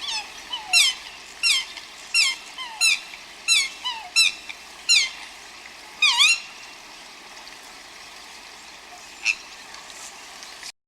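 Baby bird peeping: about ten high, piercing calls, each sliding down in pitch, come in quick succession over the first six seconds. A steady hiss follows, with one faint peep near the end.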